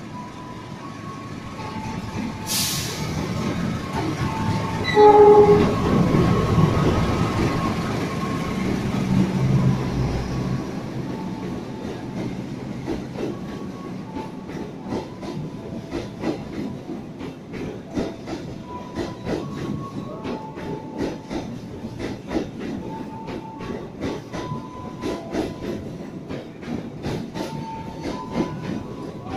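A CC206 diesel-electric locomotive pulls a passenger train in past the platform, with a short horn blast about five seconds in and its engine loud as it passes. The passenger cars then roll by with an even clickety-clack of wheels over rail joints, and a thin squeal comes and goes.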